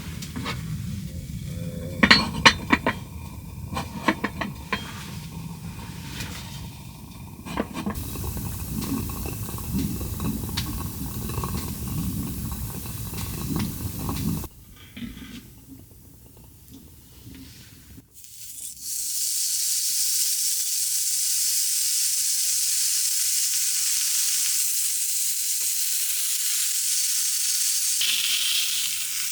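Cooking: for the first half, utensils clink and stir against a pan over a low rumble. After a short lull, food sizzles loudly and steadily in a hot pan.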